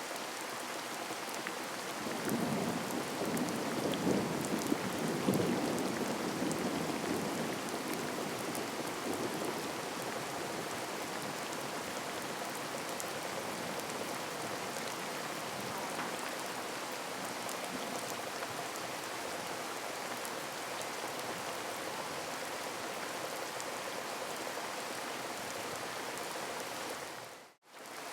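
Heavy rain pouring steadily, with a low rumble of thunder that swells about two seconds in and fades over several seconds. Near the end the sound cuts out for a split second, then the rain resumes.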